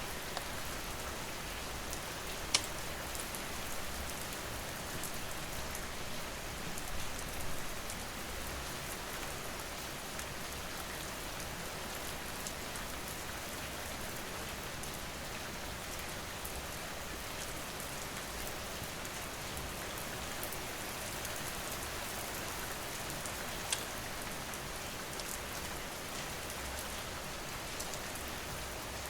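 Steady rain falling, with faint crackling and two sharp pops from a wood fire.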